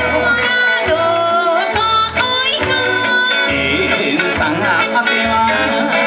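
Kawachi ondo folk music: long, wavering sung notes over a drum beat that falls about once a second.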